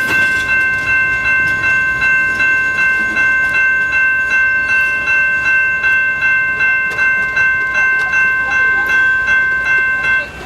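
A railway bell ringing steadily at about two strikes a second as a train passes, with clicks over the ringing. It cuts off abruptly near the end.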